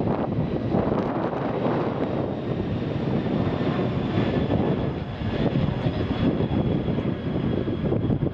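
Jet airliner engines running with a steady rumble, a faint high whine riding on top, and wind buffeting the microphone.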